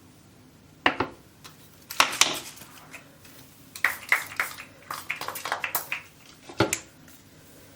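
Hard household objects being handled and set down: a series of sharp clinks and knocks, with a quick run of taps in the middle, like dishes or containers.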